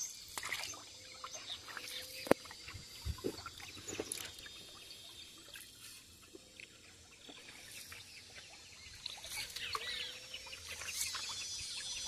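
Birds calling: many short chirps and whistled calls overlapping, with a few sharp clicks or knocks, the loudest about two seconds in.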